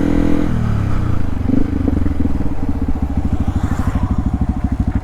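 Yamaha WR155R single-cylinder four-stroke motorcycle engine dropping in pitch as the bike slows to a stop, then settling into a steady idle putter of roughly ten beats a second.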